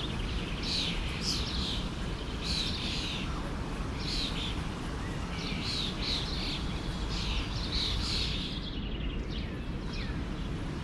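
Songbirds chirping, short high calls repeated about once or twice a second, over the steady rush of a forest stream.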